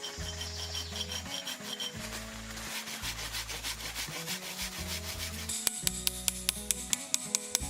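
A hand tool scraping or rasping wood in quick strokes, over background music with a steady bass. Near the end come sharp, evenly spaced clicks, about two a second.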